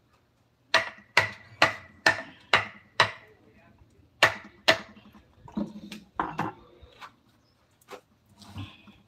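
Knocks of a tool striking wood, as in carving: six sharp strikes about two a second, a pause, two more, then softer, duller knocks and handling.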